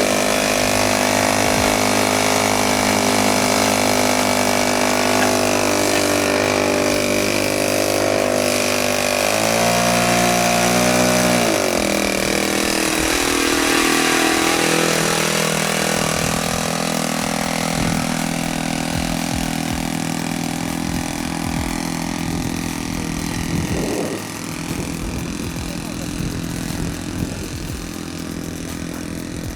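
Saito FA-62 four-stroke glow engine of a radio-control scale biplane running steadily, with the throttle raised briefly about a third of the way in, then falling back to a lower, steady speed.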